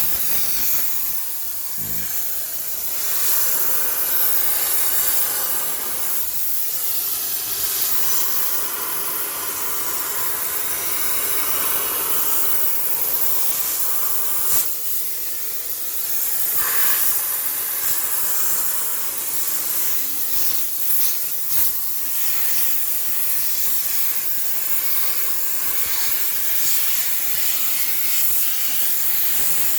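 High-pressure steam cleaner hissing steadily as it sprays steam to sterilize a washing machine, with a few brief lulls.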